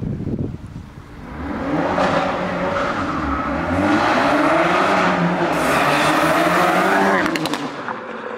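A car accelerating hard, engine note rising and falling as it revs, building about a second in and fading near the end, with a few sharp cracks as it goes.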